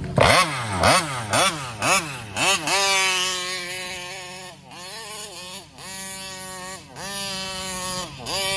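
Taylor 35cc reed-valve two-stroke engine in a Kraken Vesla RC car revving: about five quick throttle blips, then held high with the throttle let off and reapplied several times. The owner takes its lean, fuel-starved behaviour at high revs, where it won't come on the pipe, for a fuel-flow problem in the carburetor.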